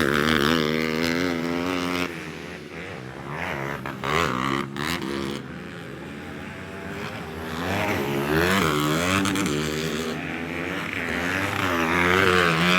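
Several 155 cc class motocross bikes racing on a dirt grasstrack, their engines revving up and down through the gears. The bikes are loud as they pass at the start and again near the end, and fainter in between.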